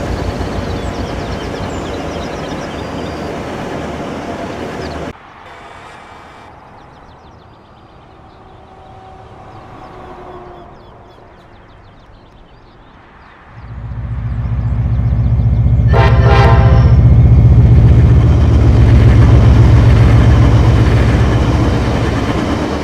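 Train sounds. A steady rumble of a passing train stops abruptly about 5 s in, followed by quieter surroundings. About 14 s in, a diesel train comes up with a loud low rumble, sounds its horn briefly around 16 seconds, and runs past close by, fading near the end.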